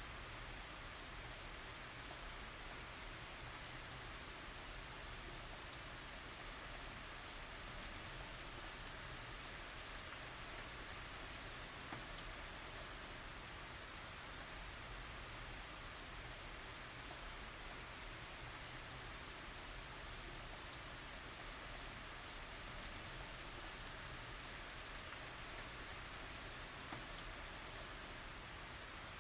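Steady tropical rain falling, an even hiss with many fine drops ticking on surfaces.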